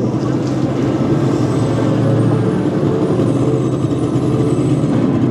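Indiana Jones Adventure ride vehicle rumbling steadily along its track in the dark, a loud, continuous low rumble with no sharp events.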